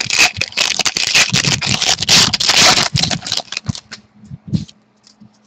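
Hockey card pack wrapper being torn open and crinkled, a dense crackling and scraping that thins out after about three and a half seconds into a few light clicks as the cards are slid out.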